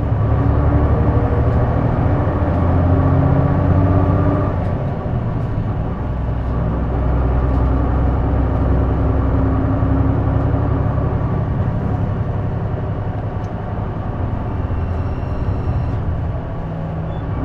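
A J-Bus city bus under way, heard from inside: a steady diesel engine drone with road noise, and the engine's note shifting up and down with speed.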